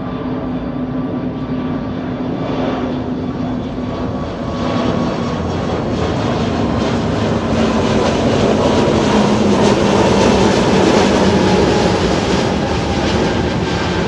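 Jet airliner's engines at takeoff thrust, a steady roar that grows louder to a peak about two-thirds of the way through and then eases slightly.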